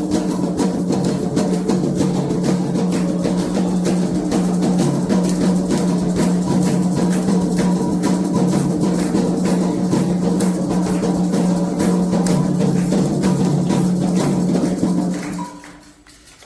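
Candomblé ritual drumming: atabaque hand drums played in a fast, steady beat with a dense run of strokes, fading out about a second before the end.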